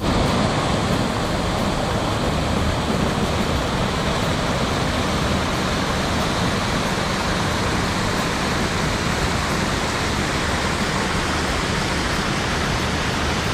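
Waterfall pouring, a steady, even rush of falling water heard close up.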